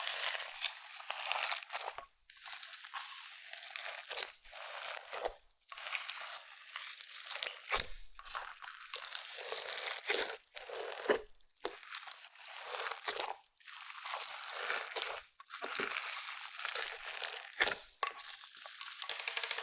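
Clear slime mixed with makeup and glitter being kneaded and pressed by hand, giving dense crackles and pops in strokes a second or two long with brief pauses between them.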